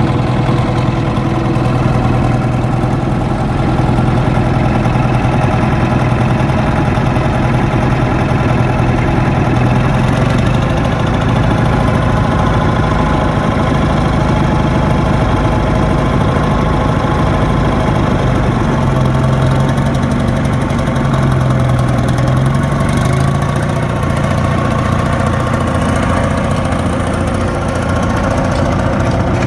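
Bolinder-Munktell BM 21 tractor's hot-bulb crude oil engine running steadily while plowing, with a slight rise and fall in its pitch about two-thirds of the way through.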